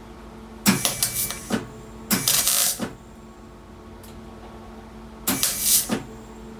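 Welder laying three short bursts of tack welds on the thin, rust-weakened steel of a car's lower radiator support panel, each a crackling sizzle just under a second long, over a steady low hum. The steel is so thin that the welds keep blowing holes.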